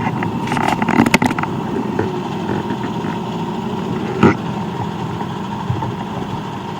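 Motorcycle engine running steadily, with a quick cluster of sharp clicks about a second in and a single knock about four seconds in.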